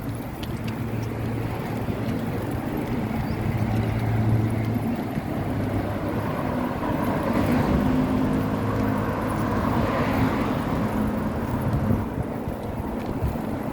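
Road traffic heard from a moving bicycle, with wind on the microphone: a steady engine hum and vehicles passing, swelling about halfway through and again a couple of seconds later.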